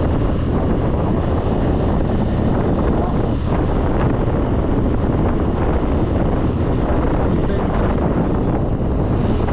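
Wind rushing over the microphone of a scooter rider at speed, a steady loud rush with the scooter's engine running low underneath.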